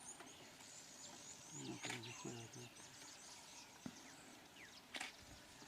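Faint natural ambience: a quick, steady series of short high-pitched chirps, about three a second, with two sharp clicks and some murmured voices about two seconds in.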